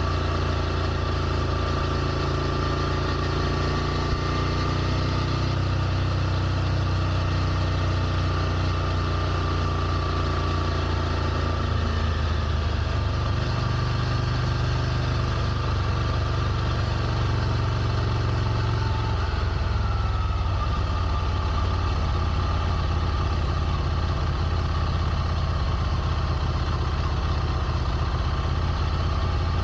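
Ducati Scrambler Nightshift's air-cooled L-twin engine idling steadily, its tone shifting slightly about twelve seconds in and again around twenty seconds.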